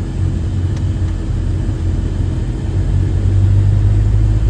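Tour van's engine running and road noise, a steady low hum heard from inside the cabin.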